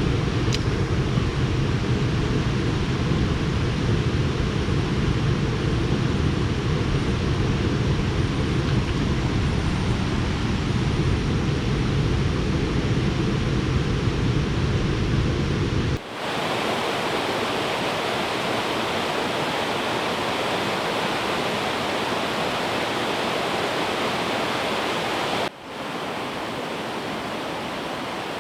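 Steady rush of flowing river water. It is deep and rumbling at first, then switches abruptly to a brighter, hissier rush about halfway through, with another brief break near the end.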